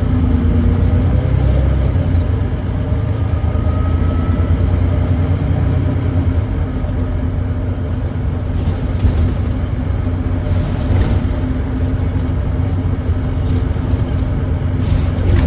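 Volvo D9B 9.3-litre diesel engine of a Volvo B9TL double-decker bus running steadily under way, with the thrash of an exhaust leak. The pitch rises slightly near the start, and a few brief knocks or rattles come in the second half.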